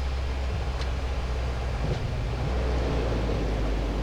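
Dash 8 turboprop cockpit noise at touchdown and the start of the landing roll: a steady low engine and propeller drone under a rushing airflow noise. The rush grows louder about halfway through as the aircraft rolls out.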